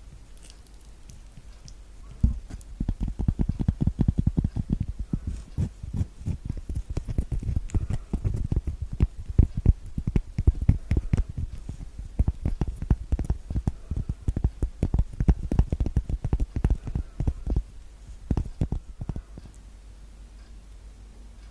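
Rapid ASMR finger tapping: a dense run of dull, low thuds, several a second, starting about two seconds in and stopping near the end.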